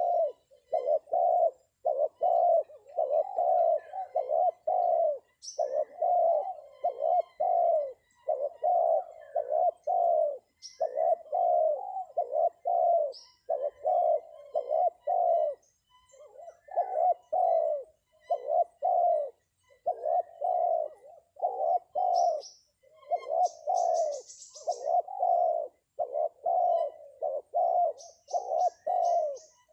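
Spotted dove (terkukur) cooing over and over in repeated phrases, the lure call used to draw wild doves down to a trap. Small birds chirp briefly a few times, high over it.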